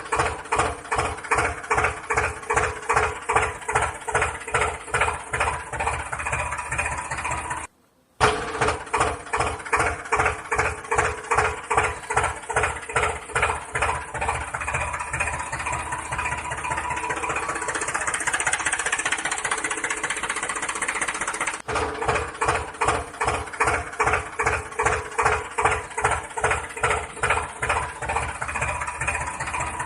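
Tractor engine chugging steadily at idle, an even beat of about three pulses a second. It cuts out briefly about eight seconds in, then carries on.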